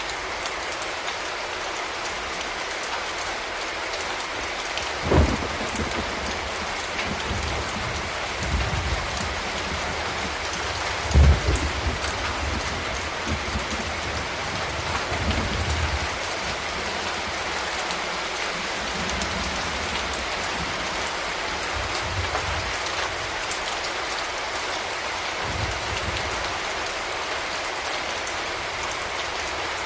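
Steady rain falling on city surfaces, an even hiss throughout. A few brief low thuds stand out, the loudest about five and eleven seconds in.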